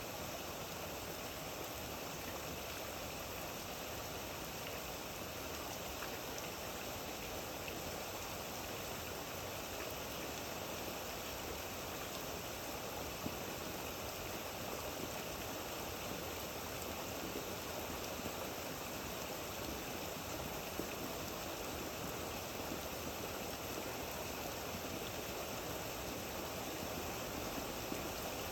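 Steady rain falling, an even wash of noise with an occasional single louder drop ticking.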